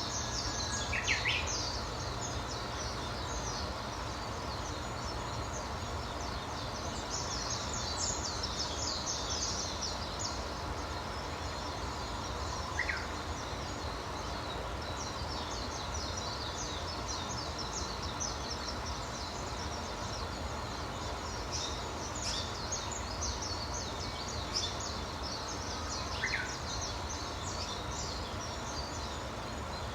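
Small birds chirping in repeated bursts of fast, high twittering notes, with an occasional short rising call, over a steady low background noise.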